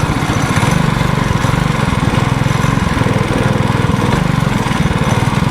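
Mini bike's small engine running steadily while being ridden, a rapid even putter of firing pulses.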